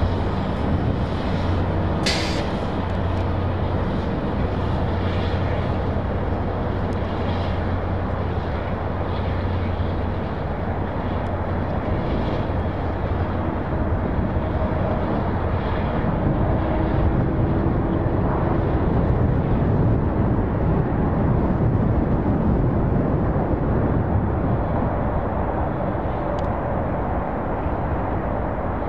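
Diesel locomotives and a moving train rumbling steadily in a rail yard, with a low engine hum through the first half and one sharp click about two seconds in.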